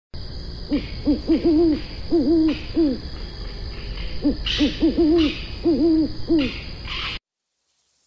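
An animal's low hooting calls: two series of short notes over a steady hiss, cutting off suddenly near the end.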